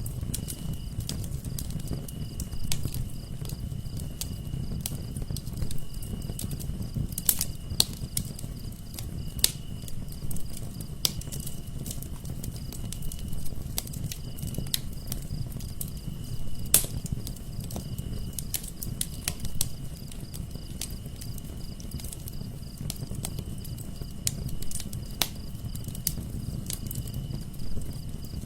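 Wood fire burning in a fireplace: a low rumble of flames with sharp crackles and pops scattered irregularly, about one every second or two. Underneath runs a steady, high-pitched pulsing trill.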